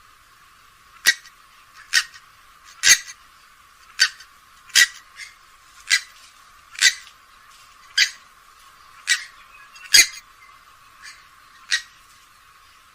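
Grey-headed swamphen giving a series of short, sharp call notes, about one a second.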